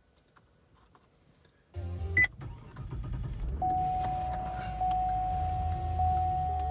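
Cadillac STS engine starting after about two seconds of near silence, then idling with a steady low rumble. A short high beep sounds as it catches, and a steady high-pitched tone comes in about three and a half seconds in.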